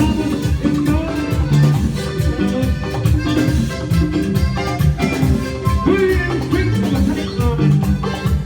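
A Latin band plays an instrumental passage with a steady drum beat under melodic instruments, and no voice is singing.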